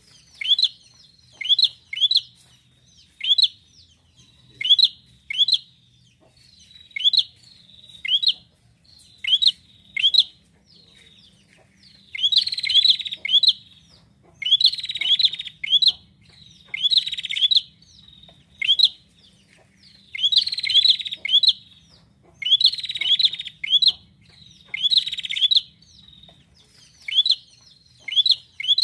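A prinia calling persistently: sharp rising chirps, one or two a second. From about the middle, louder buzzy trills come every two seconds or so between the chirps. Near the end it goes back to chirps alone.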